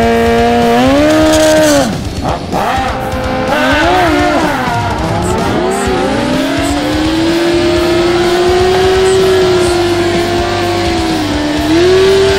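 Sport motorcycle engine revved hard and held at high rpm. Its pitch dips and wavers a few times, then climbs and holds steady for several seconds, typical of a drag-strip burnout.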